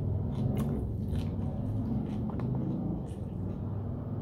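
A person chewing a mouthful of steamed broccoli close to the microphone, with a few short mouth clicks.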